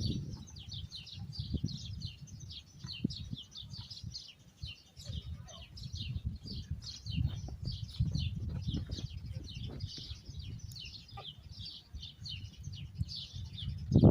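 Many small birds chirping rapidly and continuously in a dense, overlapping chatter, over a low rumble.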